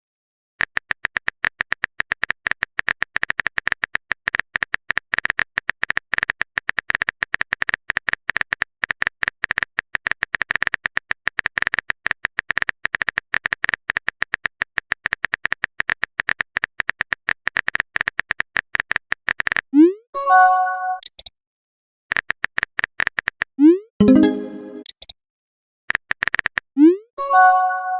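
Rapid keyboard-typing clicks for about twenty seconds, then short rising message-alert tones about 20, 24 and 27 seconds in, with shorter runs of typing clicks between them.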